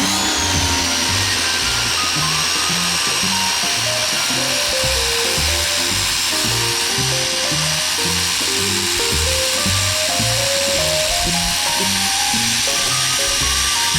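RYOBI 1,600 PSI electric pressure washer's motor spinning up with a quick rising whine, then running steadily with the hiss of the water spray, under background music.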